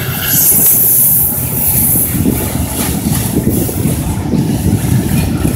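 Covered hopper cars of a freight train rolling past over the rails: a steady low rumble of steel wheels on track, with a few faint clicks.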